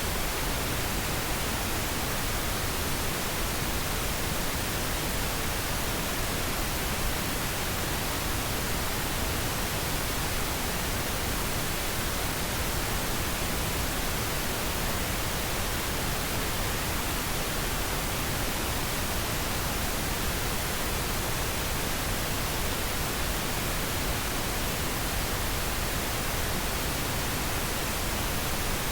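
Steady white-noise background track: an even, unbroken hiss spread across all pitches, with no change in level.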